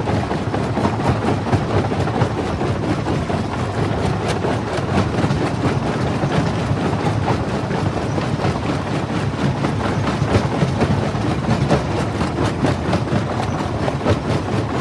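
Jaw crusher running and crushing rock: a steady heavy rumble with a constant crackle of small clicks and knocks from breaking stone.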